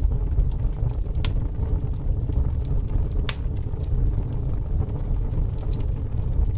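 A fire burning with a steady low rumble and scattered crackles, with two sharper pops about a second and about three seconds in.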